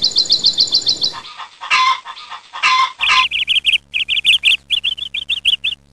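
Small bird chirping in quick runs of high notes, broken by two short whooshing bursts in the middle before the fast chirping starts again.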